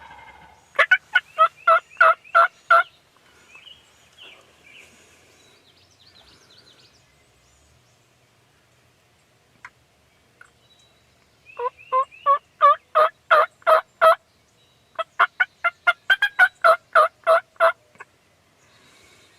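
A bird calling in three bouts of rapid, evenly repeated honking notes, about four a second, each bout lasting two to three seconds.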